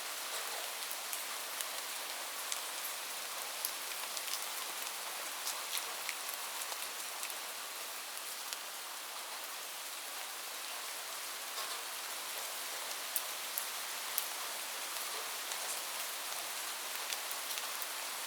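Steady rain falling on a surface: an even hiss with scattered sharper drop ticks.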